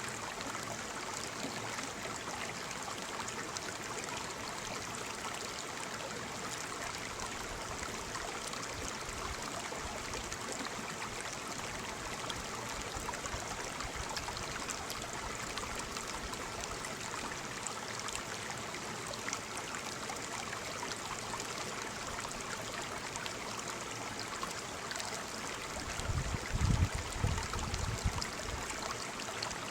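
Waterfall: a steady rush of falling water. About 26 seconds in, a few loud low thumps come over it for a couple of seconds.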